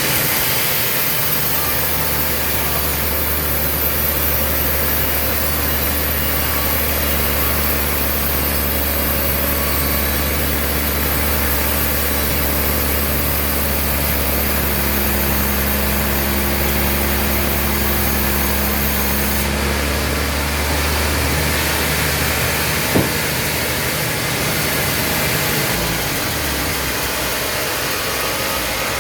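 Sawmill machinery running steadily with a low hum that fades out about 22 seconds in, followed by a single sharp knock.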